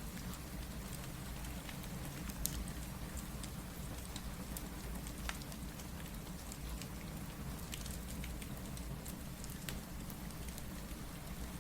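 Steady rain mixed with a crackling fireplace: a constant hiss over a low rumble, with scattered sharp pops and ticks.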